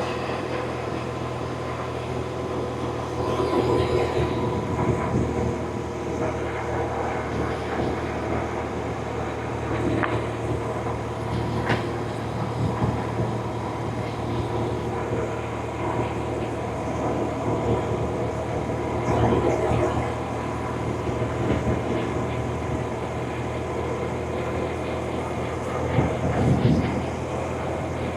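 BMW R1100RT's boxer-twin engine running at a fairly steady pace under way, with wind and road noise; it swells a little in loudness a few times.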